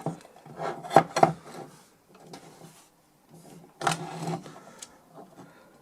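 Clicks and scraping of tools and handling on the rusty metal DI box while leftover paper and foil are picked out of it, in a burst about a second in and again near four seconds.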